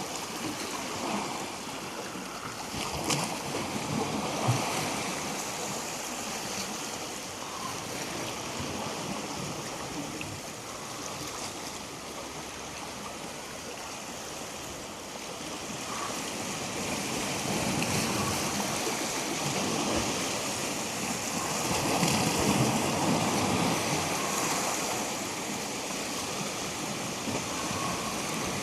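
Waves washing up onto the shore and drawing back: a steady rush of water that swells louder in surges, most strongly about two-thirds of the way through.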